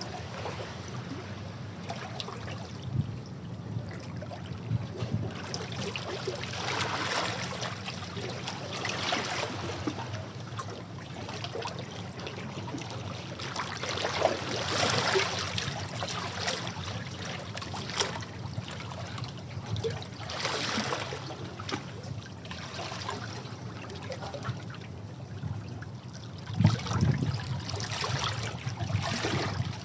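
Sea waves breaking against rocks, washing in and draining back in repeated surges every few seconds, with sharper splashes among them and a steady low rumble underneath.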